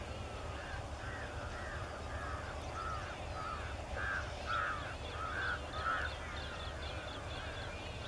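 A bird calling in a long series of harsh notes, about two a second, growing louder towards the middle and then fading. Quick, higher chirps from a second bird join near the middle.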